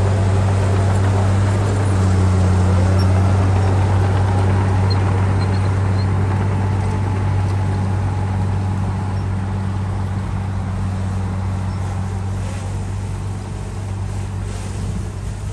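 Heavy earthmoving machine's diesel engine running steadily with a deep drone, growing slightly quieter over the last few seconds.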